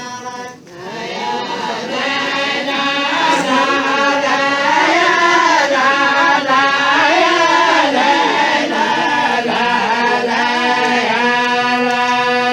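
Several voices chanting a traditional tribal chant (tarouq) together, the melody rising and falling, then ending on a long held note that stops abruptly.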